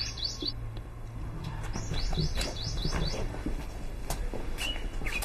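A small bird chirping in two runs of quick, high, rising chirps, one at the start and another about two seconds in, over a low steady hum.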